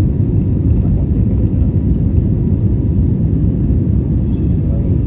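Airbus A320neo airliner noise: a steady, unbroken low rumble of engines and airflow.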